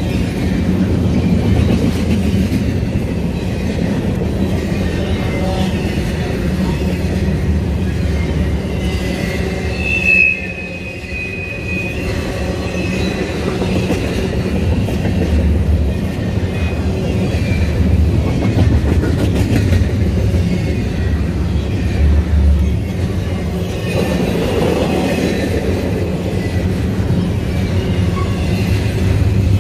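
Double-stack intermodal well cars rolling past at speed: a steady rumble and clatter of steel wheels on the rails, with a brief high wheel squeal about ten seconds in.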